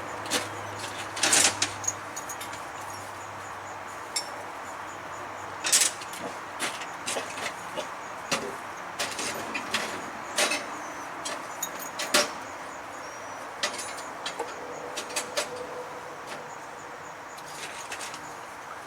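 Scattered, irregular light clicks and knocks over a steady faint hum, the loudest about a second and a half in and again about six seconds in.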